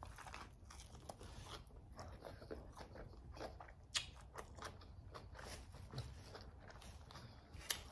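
A person biting into and chewing a sub sandwich on Italian herbs and cheese bread, heard close and quiet as soft crunches and wet mouth clicks, with a sharper click about four seconds in and another near the end.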